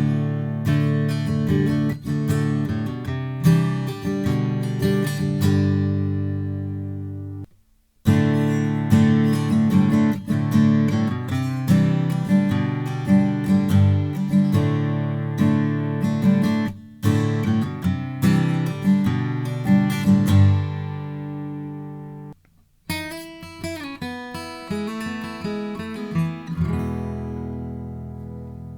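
Slope-shoulder dreadnought acoustic guitar playing chords, each chord ringing out, with two short breaks, about seven seconds in and again about 22 seconds in, before the playing starts again.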